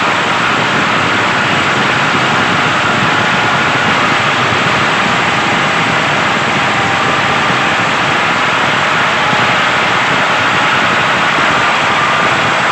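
Steady, loud motor noise with a faint wavering whine, holding level throughout.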